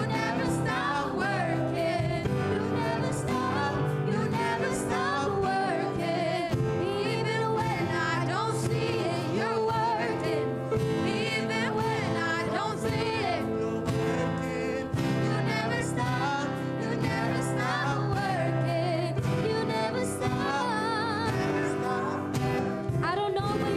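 A gospel worship song performed live: singing with wavering held notes over steady sustained accompaniment.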